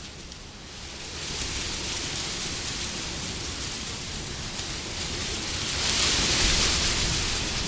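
Wind rushing in a continuous hiss that dips just after the start, builds back after about a second, and swells into a stronger gust about six seconds in.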